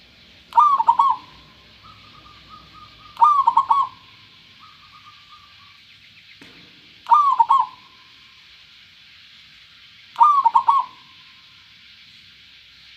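Zebra dove (perkutut) cooing: four short rolling coo phrases about three seconds apart, with softer trilling notes after the first and second phrases.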